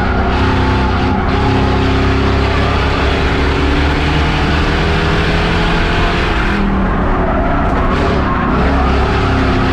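Race car engine running hard under load with a steady hiss of tyre and track noise; about six and a half seconds in the hiss drops away and the engine note changes briefly, then builds again.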